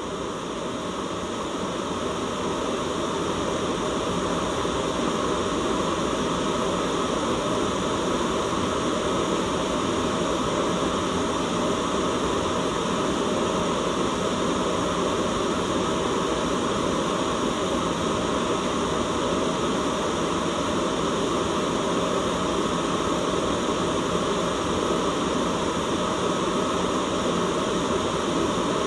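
Steady white noise, an even hiss that rises slightly in level over the first few seconds and then holds constant.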